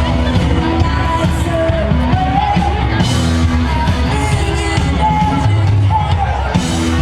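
Live rock band playing with a singer, loud and steady with a strong beat.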